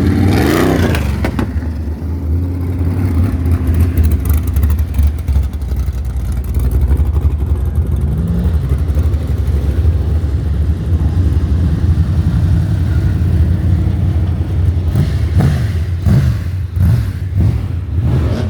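Engines of banger racing cars rumbling as they cruise past at low speed, with a rev rising about a second in and a few short revs near the end.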